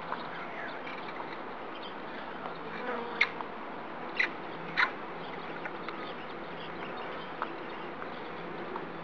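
Swarm of honeybees buzzing steadily. Three short, sharp sounds stand out about 3, 4 and 5 seconds in.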